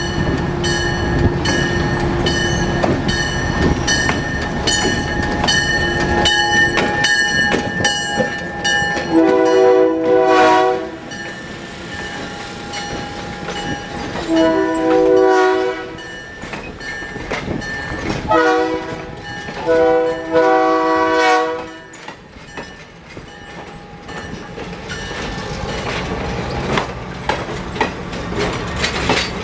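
Diesel locomotive passing close by at low speed, its engine running under the clicking of wheels on the rails. Then its air horn sounds the grade-crossing signal, long, long, short, long, with the last blast ending about two-thirds of the way through. After that the passenger cars roll past with quieter wheel noise.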